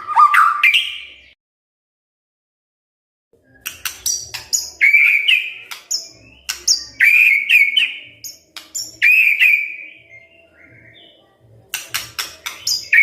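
White-rumped shama (murai batu) singing: phrases of clear whistled notes, some sliding in pitch, mixed with sharp clicks. The song starts after a pause of about two seconds near the start and breaks off briefly near the end.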